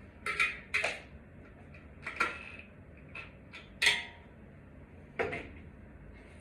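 Small hard objects, some with a metallic ring, being handled and set down: a handful of separate clinks and clatters, the loudest about four seconds in.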